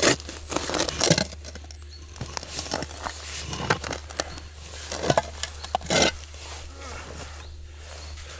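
Irregular crunches, scrapes and rustles of digging in forest soil and pulling out buried debris, with a handful of sharper crunches spread through.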